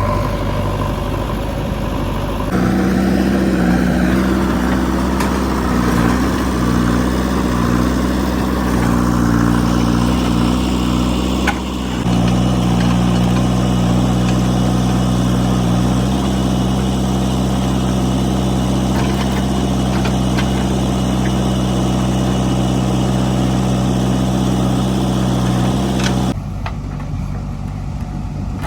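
Diesel engine of a JCB 3DX backhoe loader running steadily, its pitch and loudness shifting abruptly a few times.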